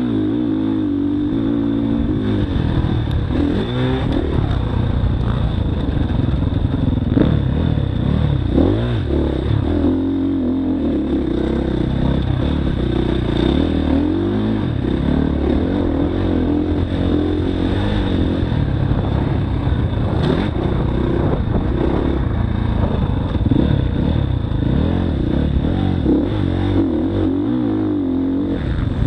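Motocross dirt bike engine running hard, its pitch rising and falling over and over as it revs up and backs off.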